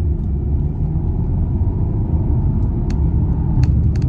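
Car engine and road rumble heard inside the cabin as the car pulls away in sport mode, a steady low rumble growing slightly louder, with a few faint clicks near the end.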